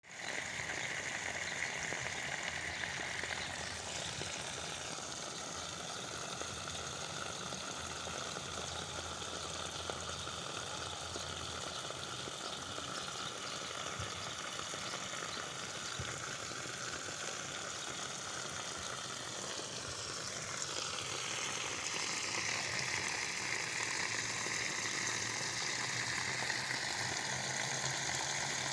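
Water from a hose pipe spraying onto plants: a steady hiss whose tone shifts about four seconds in and again around twenty seconds in, as the flow or aim changes.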